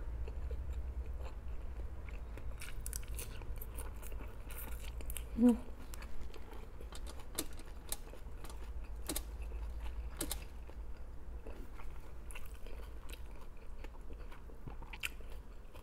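Close-miked chewing of raw arugula and lettuce leaves: many small wet mouth clicks and soft crunches, with a brief hummed 'mm' about five seconds in, over a steady low hum.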